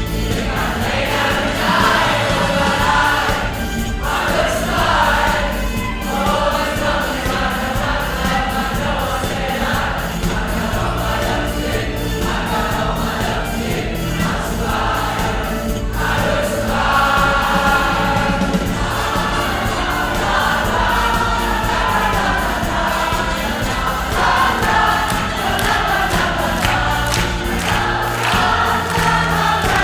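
Choir singing a pop song over an accompaniment with sustained bass notes and a steady beat.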